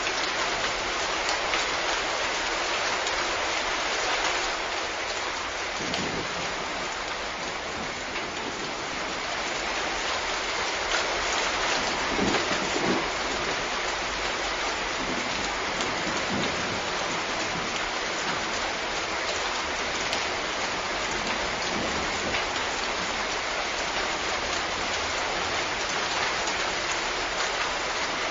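Steady, even hiss of heavy rain falling on a surface, with a few low rumbles of distant thunder, the clearest about halfway through.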